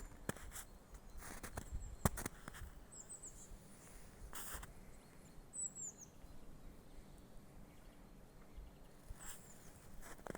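A small bird calling: three brief runs of very high, quickly falling chirps a few seconds apart. A few footsteps crunch near the start, and there is a short rustle about halfway through.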